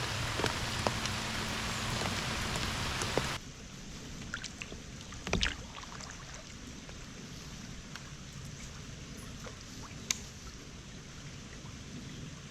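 Steady rain falling on the water and the kayak, cutting off suddenly a few seconds in. Then a quieter stretch of water lapping around the kayak, with a few light knocks and clicks.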